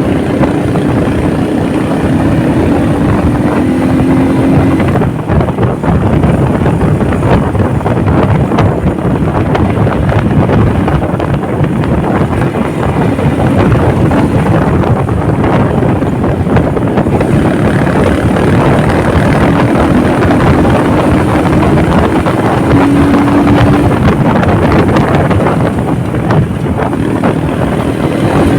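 Motorcycle running at road speed, with heavy wind rushing over the microphone. The engine note comes through faintly under the wind, shifting slightly in pitch near the start and again about two-thirds of the way in.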